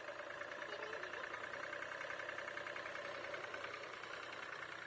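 Tractor engine running steadily, with a fast, even pulse.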